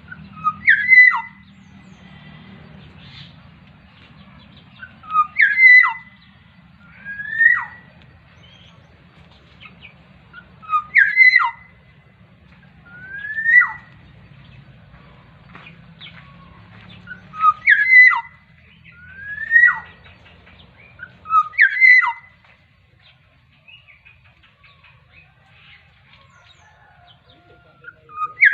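A bird calling repeatedly, a short clear whistle every two to four seconds. Some calls slide upward, others are sharp notes with a quick falling tail.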